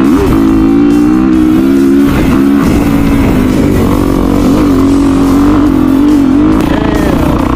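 Dirt bike engine running under way, its pitch rising and falling with the throttle, mixed with background music.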